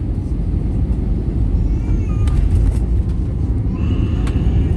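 Airbus A321neo cabin noise: a steady low rumble of the aircraft on its landing, with short, faint high voice-like sounds twice.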